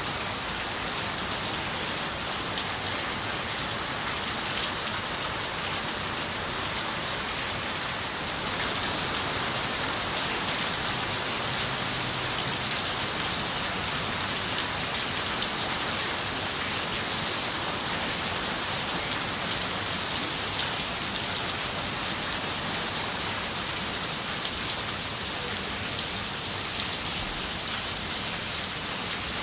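Steady rain pattering on a window pane, a little heavier from about eight seconds in, with scattered sharper drop ticks.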